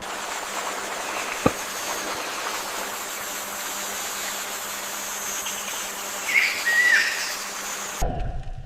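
Steady outdoor hiss with a single sharp click about one and a half seconds in, and a short whistled bird call about six and a half seconds in. The hiss cuts off suddenly near the end.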